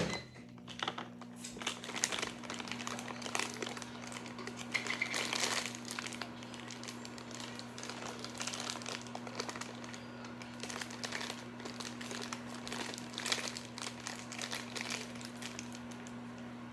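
A plastic bag crinkling and rustling in irregular bursts as pancake mix is handled and measured out, over a steady low hum.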